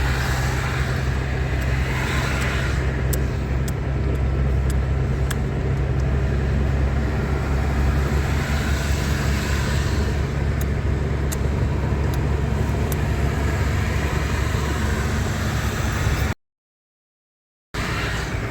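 Car engine and road noise: a steady low hum with a constant haze of tyre noise, cut by a sudden gap of total silence lasting about a second and a half near the end.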